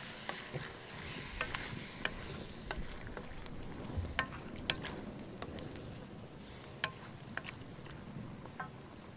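Wooden spatula stirring raw chicken pieces in ghee in an iron karahi: a steady frying sizzle with irregular sharp clicks and scrapes as the spatula hits the iron. This is the chicken being sautéed (bhuna) in the ghee.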